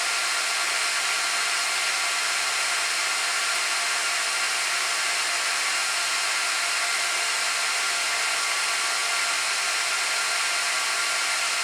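Cooling fans of a Gigabyte R180-F34 rack server running steadily during its power-on self-test: an even rush of air with several thin, steady whining tones in it.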